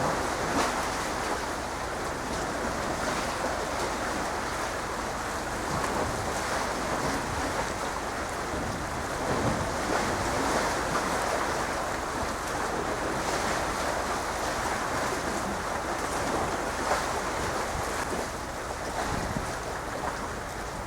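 Steady rushing of wind and waves, with wind buffeting the microphone.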